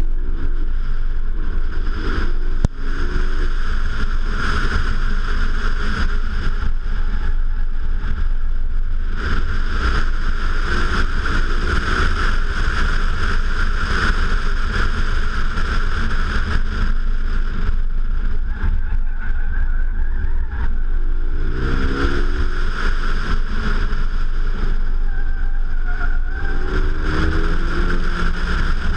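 Renault Mégane RS 265 Trophy's turbocharged 2.0-litre four-cylinder driven hard, its note rising in pitch several times as it accelerates. Heavy wind buffeting on a microphone mounted outside the car covers much of it.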